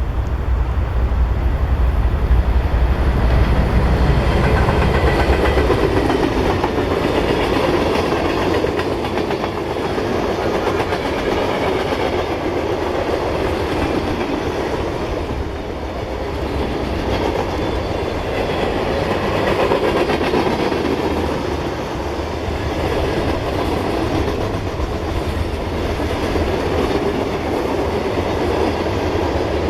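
Freight train rolling past, its wheels clicking over the rail joints. A deep diesel rumble in the first few seconds gives way to the steady roll of the cars.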